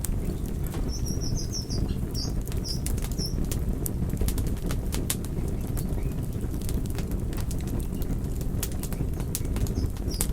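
Wood fire burning: a steady low rumble of flames with frequent sharp crackles and pops.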